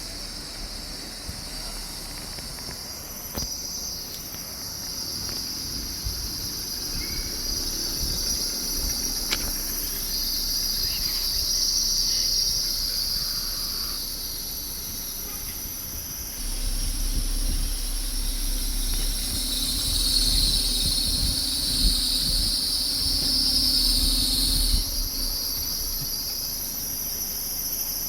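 A chorus of insects: a steady high-pitched shrill that swells and fades every few seconds, with a low rumble underneath from about halfway through.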